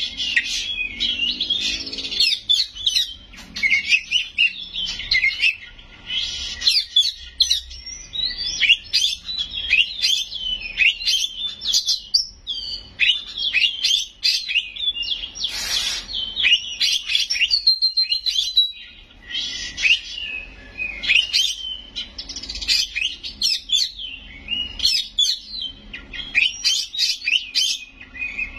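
Oriental magpie-robin (kacer) in full song: a rapid, varied stream of sharp whistles and chattering phrases, packed with phrases mimicked from other birds, with a few brief pauses.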